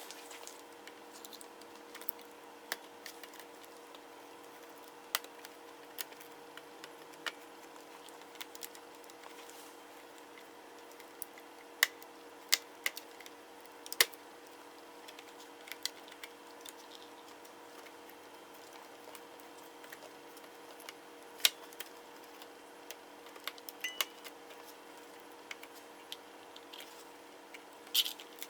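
Scattered sharp clicks and taps of small laptop parts and tools being handled during disassembly, irregular and a few seconds apart, over a steady background hum.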